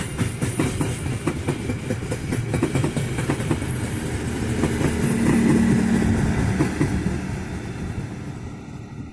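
A passing train, its wheels clacking rapidly over rail joints for the first few seconds. A steady low hum then swells to its loudest about halfway through and fades away toward the end as the train moves off.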